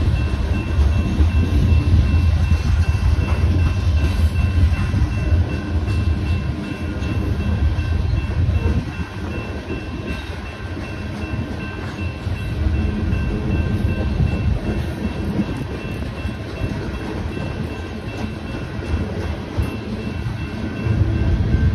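Loaded coal gondolas of a freight train rolling through a grade crossing: a low steel-wheel rumble and rattle, heavier in the first several seconds and again near the end. Over it the crossing's electronic warning bells sound a steady high ringing tone.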